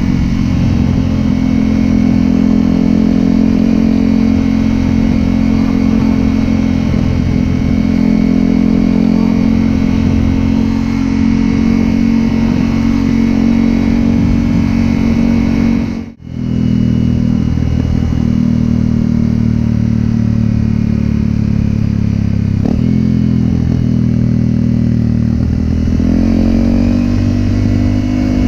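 Honda CRF250L single-cylinder four-stroke engine running through a Yoshimura exhaust while riding at a steady pace. The sound cuts out abruptly for a moment about halfway through, and the engine note rises near the end as the bike accelerates.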